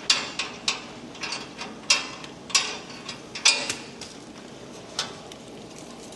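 Hand ratchet wrench clicking in short bursts, with sharp metal clinks and knocks in between, spread over the first five seconds.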